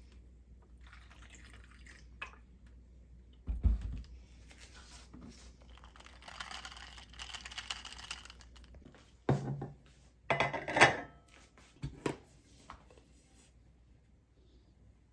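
Dishes and cups being handled: a knock, a few seconds of pouring or running liquid, then several clinks and knocks close together.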